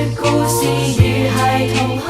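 A cappella vocal group singing held harmonies over a steady sung bass note, with low thumping beats about a second apart.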